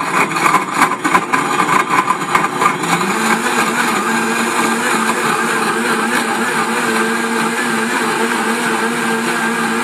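Blendtec ICB3 blender with a Wildside jar running at speed, crushing ice. For the first three seconds ice and frozen fruit rattle and clatter against the blades and jar. Then the motor's pitch rises a little and settles into a steady whine as the mixture turns smooth.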